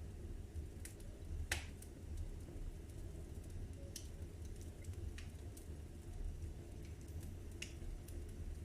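Fire crackling in a fireplace: a steady low rumble of burning with sharp pops every second or so, the loudest about a second and a half in.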